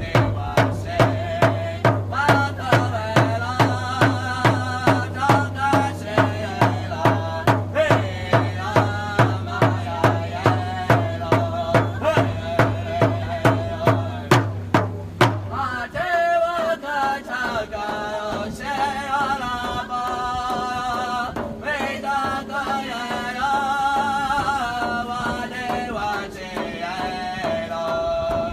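Men singing a chant over a steady, even drum beat. The drum stops about halfway through and the voices carry on alone.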